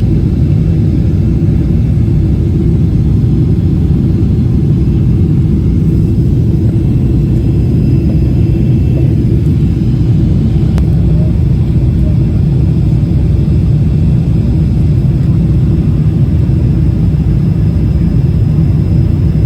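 Steady, loud low rumble of a jet airliner's engines and airflow, heard inside the passenger cabin.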